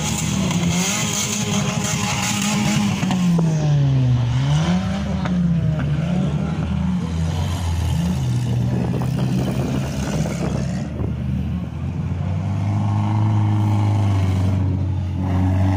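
Demolition derby car engines revving, their pitch rising and falling again and again, then running steadier at a lower pitch over the last few seconds.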